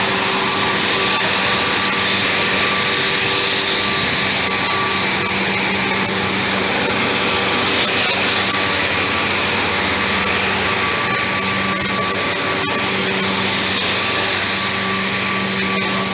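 Caltrain F40PH-2 diesel-electric locomotive running with a steady drone and a few held hum tones.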